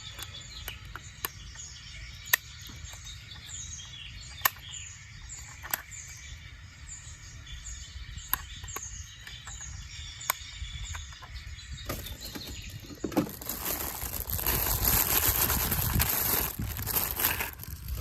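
A bird's short falling chirps repeated about twice a second, with scattered sharp clicks, then a loud rushing noise for about five seconds starting some twelve seconds in.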